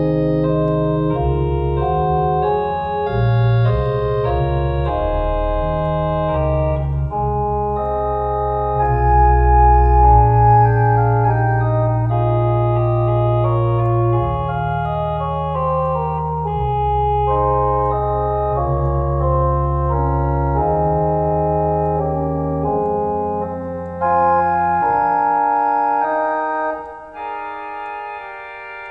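Organ playing a closing postlude: held chords over a deep pedal bass. The bass drops out about three quarters of the way through, and the music grows quieter near the end.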